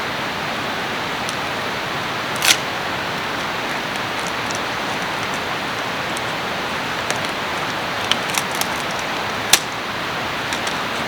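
Steady rushing of a nearby river, a constant even hiss of flowing water. A few sharp clicks cut through it, the clearest about two and a half seconds in and near the end.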